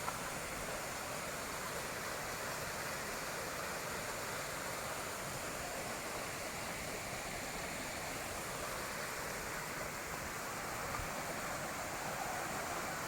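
Small waterfall pouring steadily, a constant rush of falling water.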